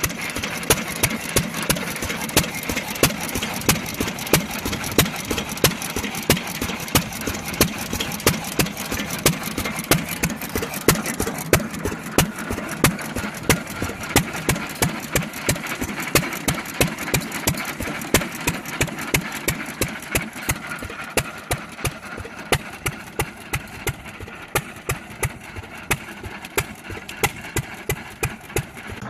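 Big old Fairbanks Morse engine running slowly and steadily at idle, with a sharp, evenly spaced exhaust beat.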